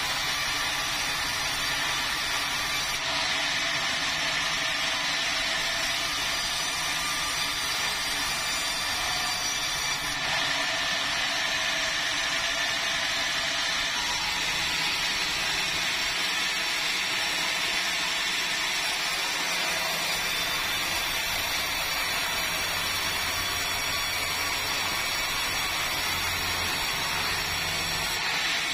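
Two-stroke chainsaw running steadily under load, cutting through a log.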